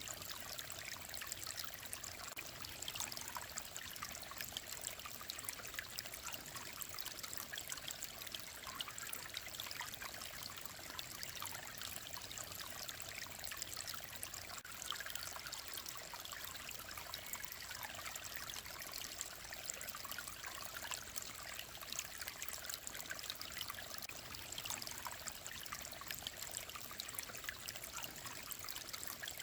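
Clear mountain stream running over stones, a steady babbling and trickling of water with fine splashing detail and little low rumble.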